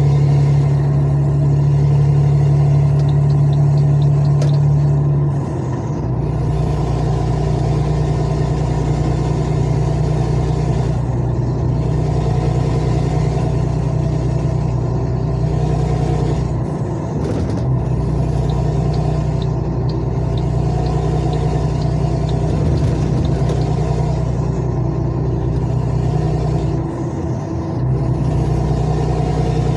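Truck engine running at a steady speed. Its note changes about five seconds in and dips briefly twice, around 17 and 27 seconds.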